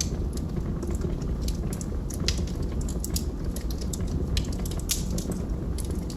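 Log fire crackling: irregular sharp snaps and pops of burning wood, several a second, over a steady low rumble of the flames.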